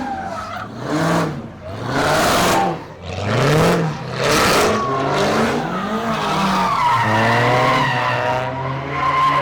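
A car spinning its rear tyres: the engine revs up and falls back several times over the first six seconds as the tyres squeal and scrub. It then holds a steadier high note for the last couple of seconds while the squeal carries on.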